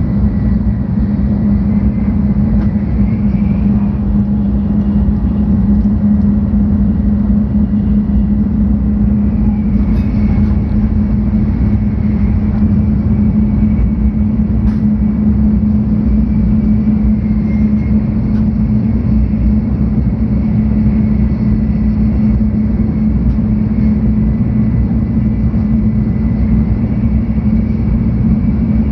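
Cabin noise of a 700-series Shinkansen running at a steady pace: an even, loud rumble with a strong low hum, and a faint high whine that wavers slightly in pitch.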